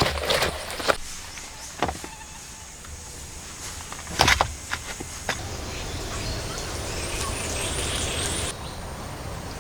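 A few scattered sharp knocks, like work on wood or stone, then a steady high insect buzz in the forest that drops away sharply near the end.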